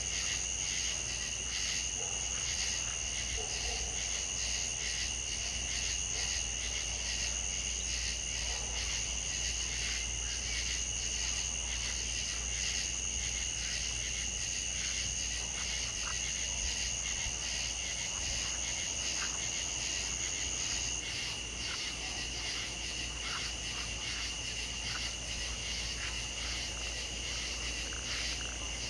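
A chorus of insects trilling steadily in rapid, even pulses, with a higher trill that stops about two-thirds of the way through.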